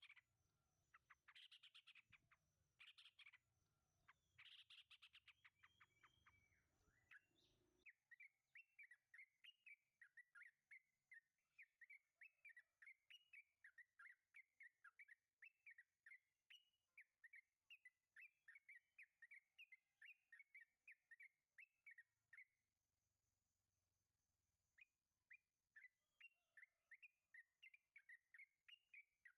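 Yellow-vented bulbul calling. For the first several seconds it gives bursts of rapid chattering notes about every second and a half. Then it switches to a long, even run of short chirps, about three a second, with a brief pause near the end.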